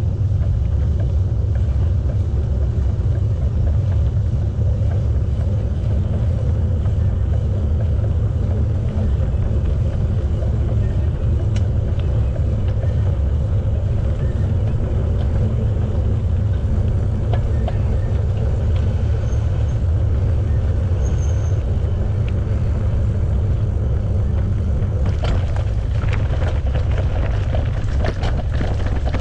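Wind buffeting the camera microphone on a moving bicycle, a steady low rumble mixed with tyre noise on the path. A few sharp clicks or rattles come near the end.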